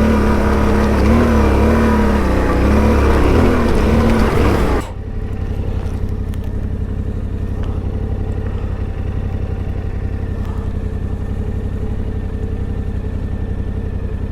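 Yamaha Ténéré 700 parallel-twin motorcycle engine pulling under throttle, its pitch rising and falling with the throttle. About five seconds in it drops suddenly to a steady, lower, even running like an idle.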